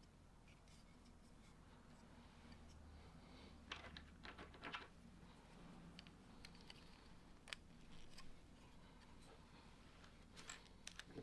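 Faint, scattered clicks and light rattles of plastic Lego pieces being handled and pressed together, with a quick cluster of clicks about four seconds in.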